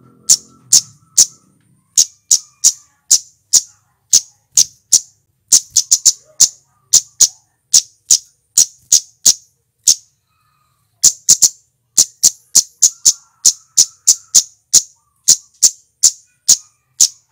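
Flowerpecker (cit keres) giving a long series of short, sharp, high-pitched chip calls, about two a second, some in quick pairs, with a brief pause about ten seconds in.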